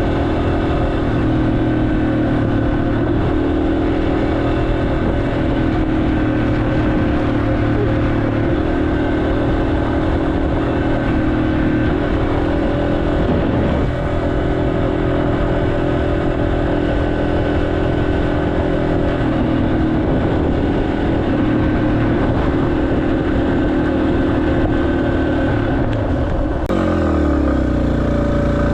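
Yamaha XT250's single-cylinder engine running under way. The engine note steps up and down in pitch every few seconds as the throttle and gears change, over a steady rush of road and wind noise. Near the end the sound changes abruptly to a lower, heavier engine note.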